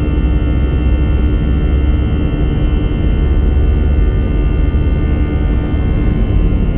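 Airbus A320's CFM56 jet engines heard from inside the cabin: a steady, loud rumble with several steady whining tones over it.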